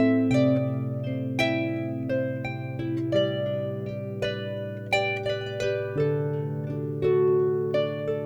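Harp playing an instrumental tune: plucked notes ringing and fading over low bass notes held for a second or more.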